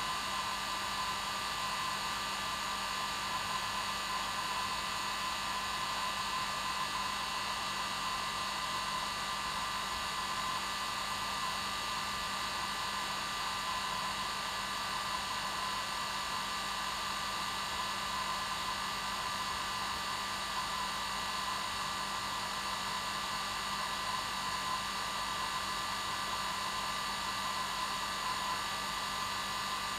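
Hair dryer running steadily, a constant rushing whoosh with a steady hum and whine in it.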